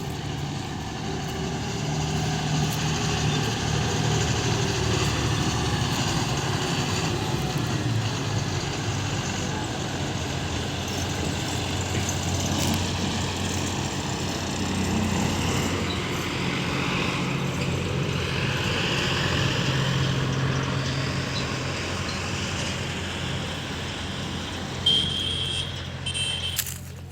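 Heavy diesel machinery engine running steadily, its note rising and falling slightly with load. Two short high beeps sound near the end.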